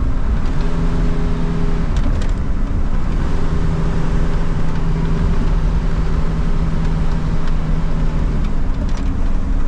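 Motor vehicle driving at a steady speed: the engine hums at an unchanging pitch over a constant road and tyre rumble, the hum fading briefly about two seconds in.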